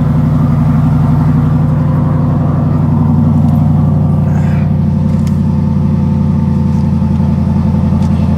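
2021 Corvette C8's 6.2-litre LT2 V8 idling steadily through an aftermarket straight-pipe catback exhaust, still warming up after a cold start.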